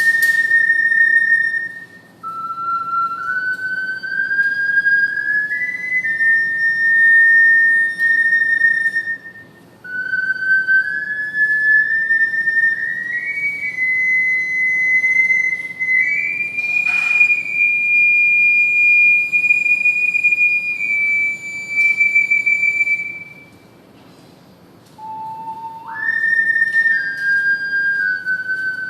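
Triple ocarina playing a slow melody one clear note at a time. The phrases step gradually upward, separated by short breathing pauses. A brief click sounds about 17 seconds in.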